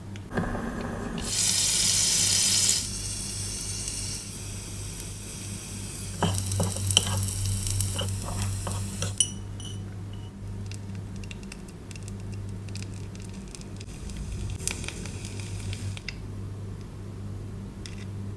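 Chopsticks briefly stir a beaten egg in a tiny glass bowl, then loud sizzling of egg frying in a miniature pan that fades over a few seconds. After that come light clicks and scrapes of tiny metal utensils on the pan, over a faint steady hum.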